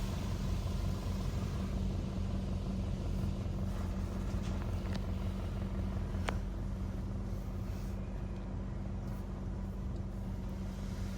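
Steady low mechanical hum heard from inside a car going through an automatic car wash, with a few faint ticks in the middle.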